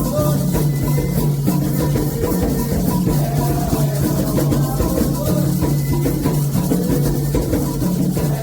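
Candomblé ritual music: hand drums and shaken percussion keep a dense, steady rhythm under voices singing a chant.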